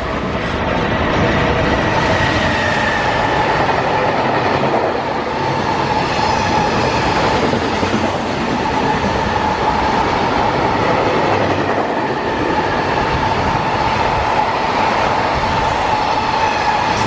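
Freight train running past, a steady rush of wheel-and-rail noise with a steady high whine over it.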